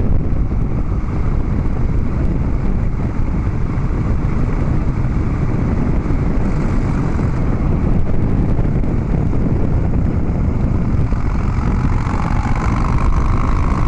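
Harley-Davidson Dyna Street Bob's V-twin engine running through Vance & Hines Big Radius 2-into-2 exhaust pipes at a steady cruise.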